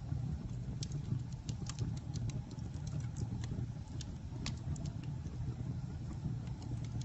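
Campfire burning: a steady low rumble of flame, with sharp wood crackles and pops scattered irregularly through it.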